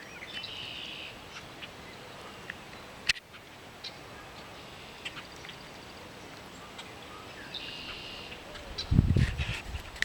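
Wild birds calling: scattered short chirps, with a buzzy trilled call near the start and again near the end. Loud low rumbling bursts come in about nine seconds in.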